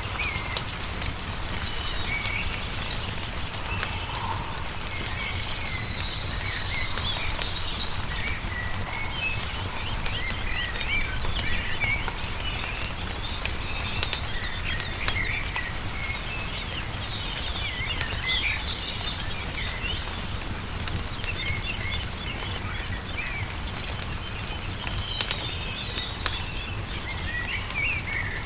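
Several songbirds chirping and singing in quick short phrases over a wood fire crackling with scattered sharp pops, with a steady low rumble underneath.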